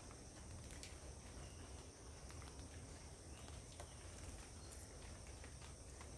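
Faint outdoor ambience: a steady high-pitched insect drone, like crickets or cicadas, over a low rumble, with a few scattered light clicks.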